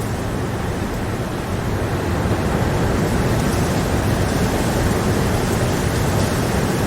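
Steady rain, an even hiss with no distinct drops, swelling slightly about two seconds in.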